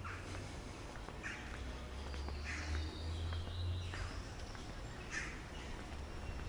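Outdoor ambience with birds calling: a few short, harsh calls spaced a second or two apart over a steady low hum.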